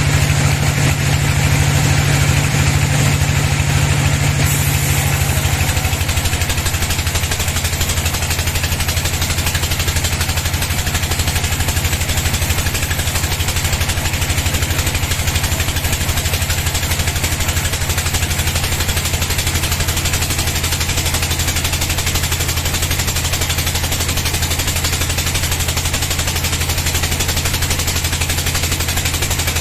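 Engine driving a sawmill bandsaw, running steadily with a fast, even pulse; about five to seven seconds in it settles to a lower pitch and holds there.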